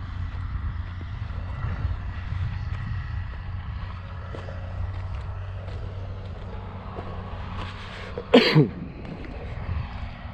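A vehicle engine running steadily with a low drone. About eight seconds in, a single brief, loud vocal sound falls in pitch.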